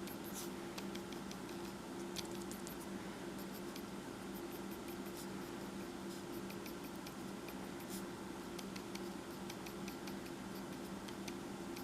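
Faint, quick scratching strokes of a drawing tool on paper, many short scratches scattered irregularly, over a steady low hum.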